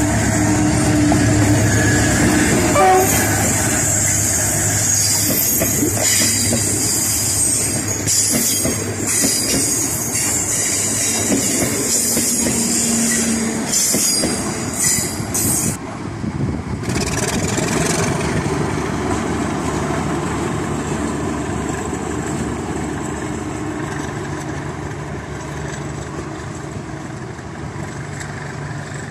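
Passing passenger trains: a diesel locomotive's horn sounds in the first few seconds, then coaches roll by with wheels clacking over rail joints. After a sudden cut about 16 seconds in, a quieter, steady train rumble continues, fading slowly.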